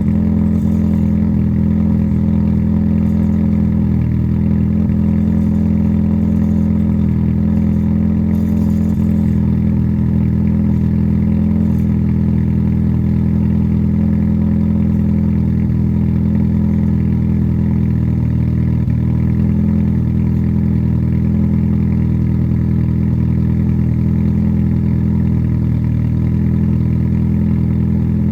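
Honda SOHC D16 1.6-litre four-cylinder engine idling steadily in the minutes after a cold start, with no change in engine speed.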